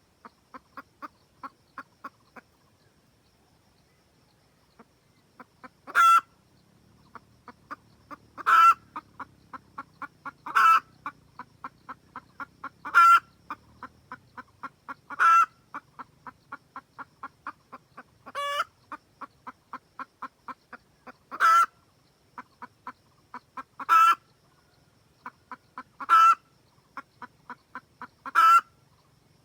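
Red junglefowl hen cackling: runs of quick, short clucks, each run ending in a loud drawn-out squawk, about ten times in all, every two to three seconds. This is the hen's cackle that calls a rooster to her.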